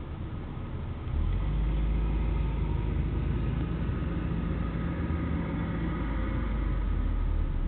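A car engine running low and steady, its rumble getting louder about a second in and then holding.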